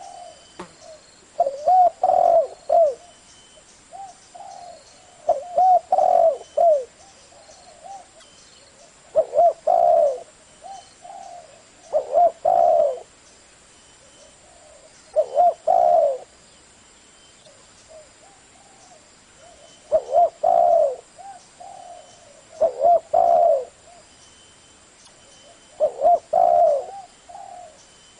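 Spotted dove cooing: about eight phrases of low, bending coo notes, one every three seconds or so, with softer coos between them.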